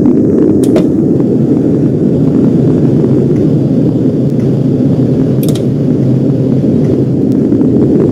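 Subway garbage train running along the track: a steady, loud, low rumble with a few sharp clicks.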